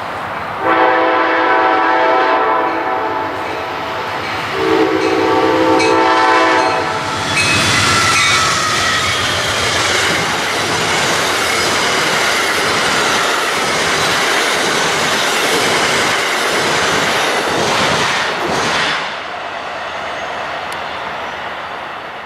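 A passing train's locomotive air horn sounds two long chord blasts. Then the train rushes past close by with wheel and rail noise and a faint wheel squeal, and fades away near the end.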